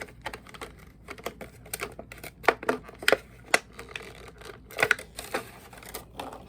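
Parts of a dog grooming clipper kit being handled and set down: scattered light clicks and taps, a handful of sharper ones around the middle.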